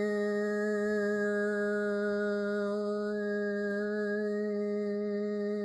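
A woman's voice holding one long, steady toned note low in her range, the vowel colour shifting slightly partway through.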